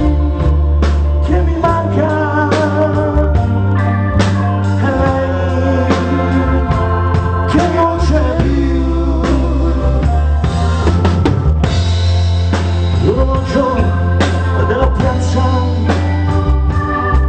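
Live pop band playing an instrumental passage: drum kit, a steady bass line, and sustained keyboard or organ chords under a melodic lead line.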